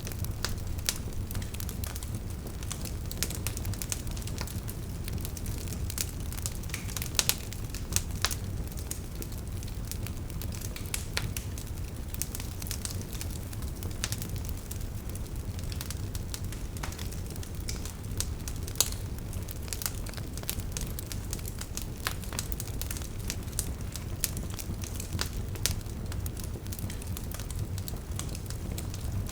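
Wood fire burning with irregular crackles and sharp pops over a steady low rumble of flame.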